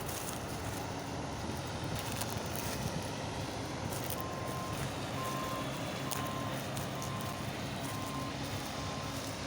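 Diesel engine of a large farm machine running steadily. About four seconds in, its reversing alarm starts beeping, a single high beep roughly once a second.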